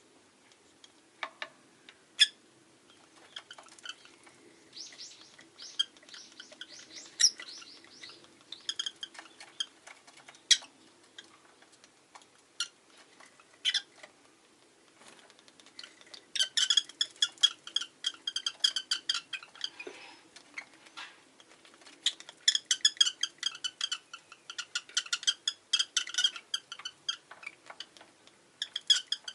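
Rosy-faced lovebirds chirping: scattered sharp calls and clicks at first, then two long runs of rapid, high-pitched chirping in the second half.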